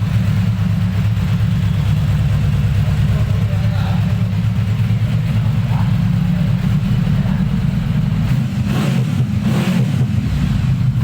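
Yamaha VMAX 1700's V4 engine running steadily at idle, a deep, even exhaust note.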